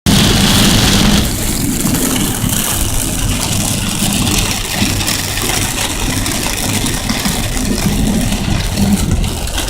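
Car driving on a freeway in heavy rain: a dense, steady wash of rain and wet-road spray over the low rumble of the car running, with a louder hiss in the first second or so.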